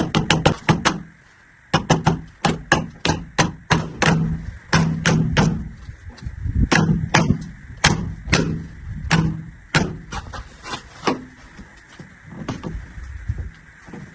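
A hammer striking repeatedly, about two to three blows a second with a short pause about a second in, to knock a drainage part firmly into place. The blows grow lighter after about ten seconds.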